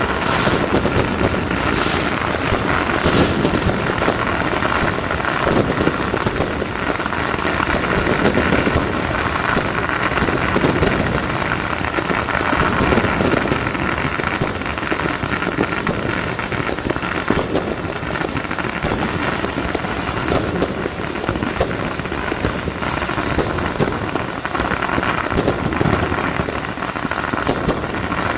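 Fireworks and firecrackers going off without a break: a dense crackle of many small bangs.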